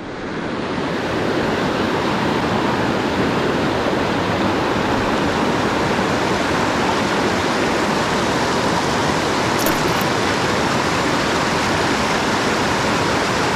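Rushing water of a mountain headwater stream, a steady, even flow that fades in over the first second.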